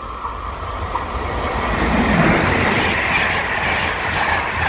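Locomotive-hauled passenger train passing close by, its wheels running on the rails. The running noise swells about two seconds in and stays loud as the coaches go past.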